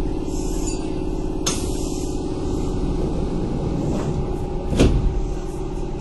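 Kintetsu 8000 series electric train running, heard from inside the car: a steady hum from the motors and gears over low track rumble. Two sharp knocks, one about a second and a half in and a louder one near five seconds.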